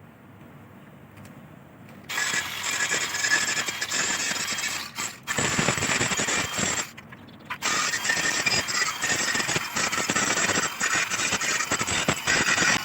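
Electric arc welding on a steel bicycle frame: a loud, dense crackling and sizzling that starts about two seconds in. The arc breaks off abruptly twice and strikes again.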